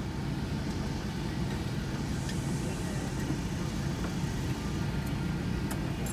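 Shuttle van engine idling while parked: a steady low hum, with a few light clicks near the end.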